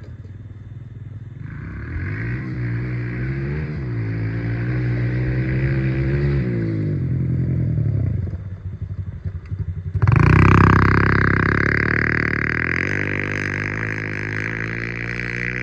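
Small dirt bike engine revving up and down in pitch. About ten seconds in it gets suddenly much louder, then slowly fades before cutting off abruptly at the end.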